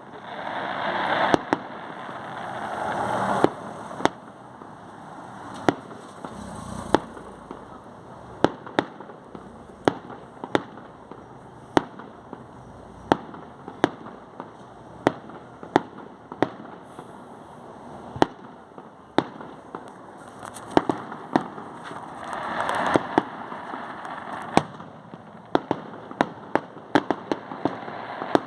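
Fireworks going off: a long run of sharp bangs at uneven intervals, with swells of hissing crackle near the start and again about two-thirds of the way through.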